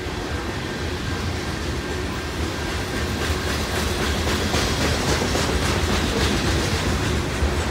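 Covered hopper cars of a freight train rolling past: a steady rumble of steel wheels on the rails with clicking from the wheels over the rail joints, a little louder in the second half.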